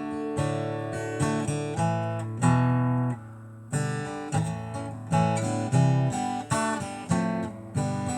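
Acoustic guitar playing chords, picked and strummed at a slow pace between sung lines of a ballad, with a brief lull about three seconds in.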